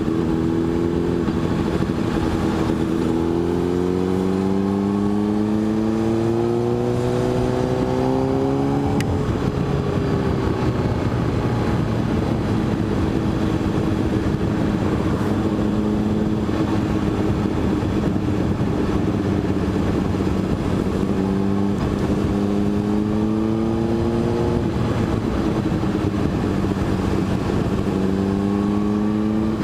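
Motorcycle engine running under way. The revs climb steadily for several seconds as it accelerates, then hold level, and climb again about two-thirds of the way through and near the end. A steady rushing noise runs underneath.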